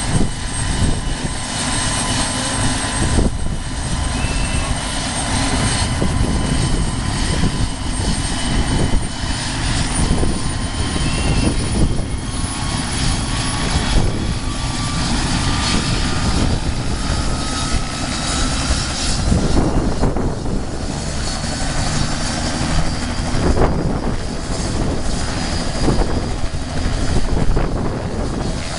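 Helicopter running, with a loud steady rotor and engine noise and thin high whines that rise slowly in pitch through the middle.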